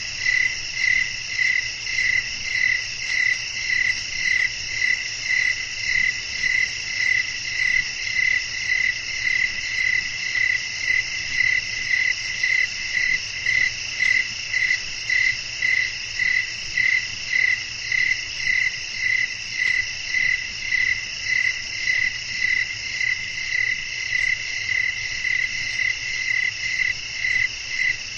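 Night chorus of crickets chirping: one loud, even chirping pulses a little under twice a second over a continuous higher trill from many insects.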